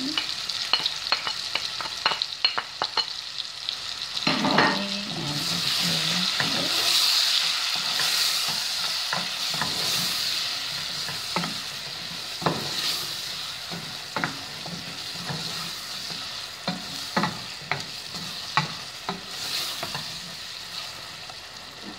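Meatballs frying with freshly added chopped onions and garlic in a steel pot, sizzling steadily while a wooden spoon stirs them and knocks against the pot again and again. The sizzle grows louder about five seconds in and eases off again after about ten seconds.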